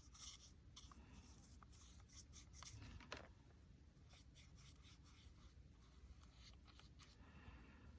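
Near silence with faint scratching strokes of an art tool rubbing on paper, and a few light ticks.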